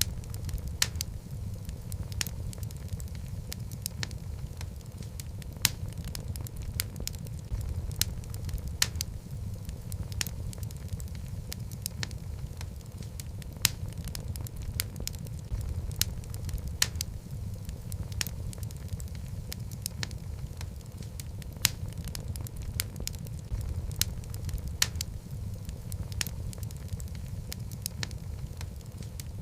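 Wood logs burning in a fireplace: a steady low rumble of flames with sharp, irregular crackles and pops several times a second.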